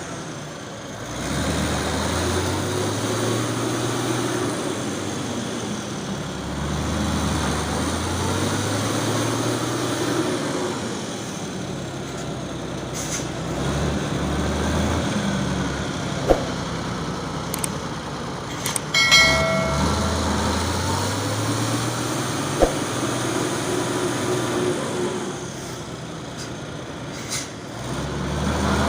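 Heavy truck's diesel engine revving up and easing off again and again, its pitch climbing several times. A short high-pitched tone and a couple of sharp clicks come over it about halfway to two-thirds through.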